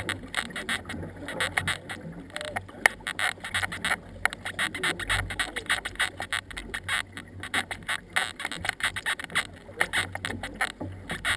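Water splashing and spattering around a racing canoe under paddle: a dense, irregular run of small splashes and drips over a low rumble.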